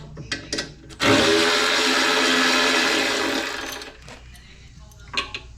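Handheld power tool running for about two and a half seconds and then winding down as a bolt is backed out of the wood chipper's frame. There are sharp metal clinks just before it and near the end.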